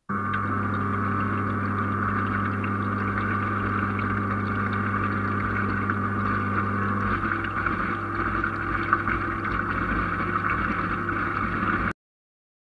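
Radio-controlled fish-finder boat's motors running steadily as a humming whine. The tone shifts about seven seconds in, and the sound cuts off suddenly near the end.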